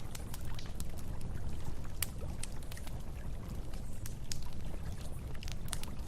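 Campfire crackling, with sharp irregular pops, over a low steady rush of flowing river water.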